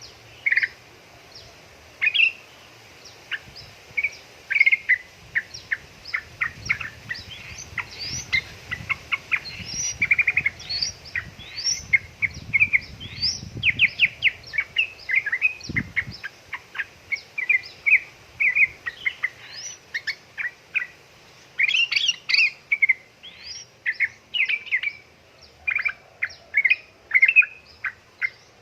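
Yellow-vented bulbuls chattering: a dense, busy stream of short sharp chirps and warbled notes, broken by quick rattling runs of notes about ten seconds in and again around thirteen seconds.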